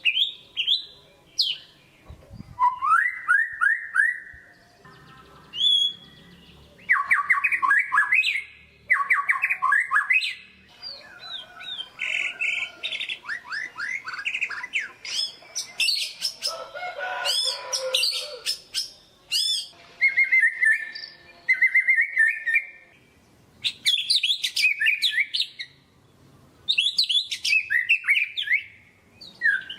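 White-rumped shama (murai batu) singing a long, varied song: quick runs of repeated chirps and trills, and whistled glides, in phrases broken by short pauses.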